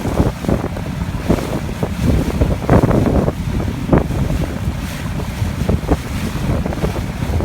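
Heavy wind buffeting the microphone in irregular gusts over a steady low rumble of a boat moving through water.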